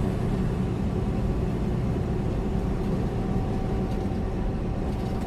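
Steady drone inside the cab of a fully loaded semi truck cruising at about 65 mph: diesel engine hum mixed with road and wind noise, with an even level throughout.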